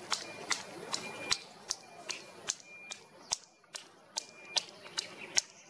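A steady series of sharp clicks, about two or three a second, with a faint thin high tone coming and going between them.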